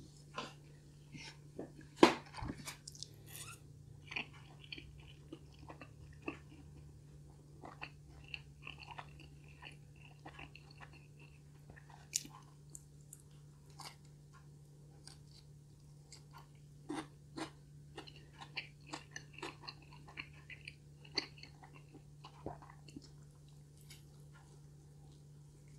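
Close-miked chewing and biting of cheesy stuffed-crust pizza: scattered wet mouth clicks and smacks, with one sharp loud click about two seconds in, over a low steady hum.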